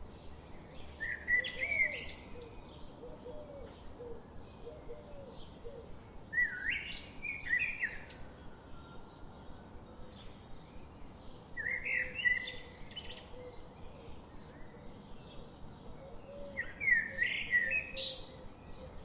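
A songbird singing a short, loud phrase four times, about every five seconds, with fainter chirps from other birds between.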